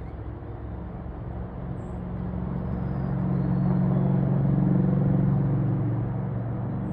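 A motor vehicle's engine running with a steady low hum, growing louder from about two seconds in to a peak, then easing slightly near the end.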